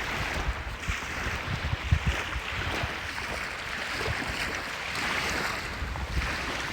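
Wind buffeting the microphone over the wash of surf, the hiss swelling and easing every second or two, with low irregular thumps from the wind.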